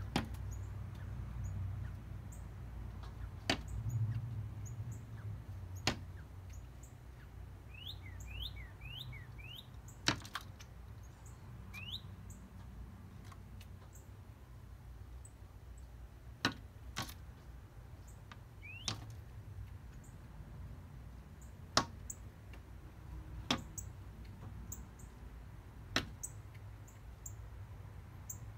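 A small bird flying into window glass again and again: about ten sharp taps, irregularly spaced a few seconds apart, with a few short chirps between them. The owner takes the strikes for the bird fighting its own reflection.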